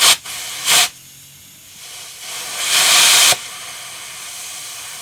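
Compressed air hissing at a tire valve while a tire is inflated, with short loud blasts at the start and just under a second in, and a longer one near the middle.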